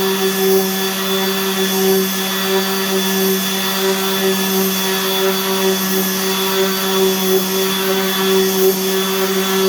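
Handheld electric sander running steadily on a wooden door, a constant motor hum under the hiss of sandpaper on the wood.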